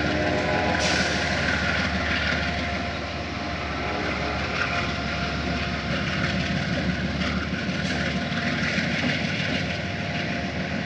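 Amtrak passenger train rolling past on departure, a steady rumbling rush of wheels on rails.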